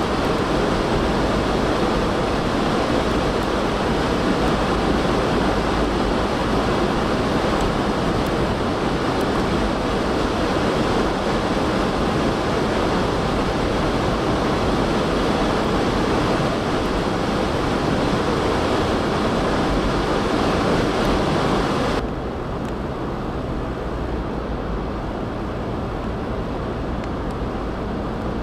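Strong blizzard wind rushing steadily, a loud even roar with no let-up. About two-thirds of the way through it cuts abruptly to a quieter, duller rush.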